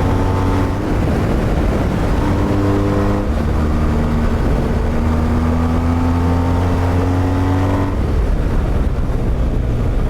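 Motorcycle engine running under way. Its pitch shifts a few times early on, then climbs steadily for several seconds before dropping sharply about eight seconds in.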